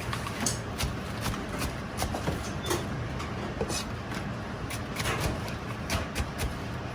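Kitchen work sounds: irregular clicks, knocks and clinks of utensils and containers, several a second, over a steady low hum.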